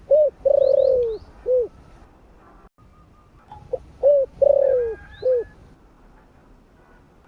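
Spotted dove cooing: two phrases about three and a half seconds apart, each a short coo or two, a long falling coo, then a short final coo. Faint chirps of small birds sound alongside.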